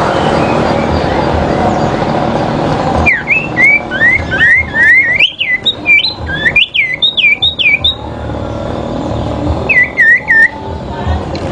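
Sirpu birds singing their fighting song: a rapid run of sharp, whistled notes that sweep up and down, about a dozen over five seconds, then a short burst of three more near the end. A loud rushing noise fills the first three seconds before the song starts.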